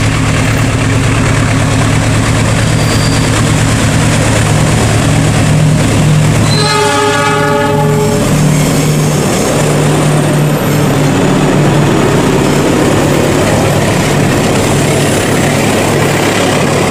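Diesel locomotive passing close by with a steady low engine drone. About seven seconds in it sounds one horn blast of about two seconds. As the engine fades, the passenger coaches roll past with the noise of wheels on rails.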